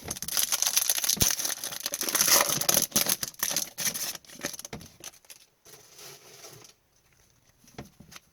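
Foil trading-card pack wrapper being torn open and crinkled in the hands, a dense crackling for the first four seconds or so, then a softer rustle and a few light clicks as the cards are handled.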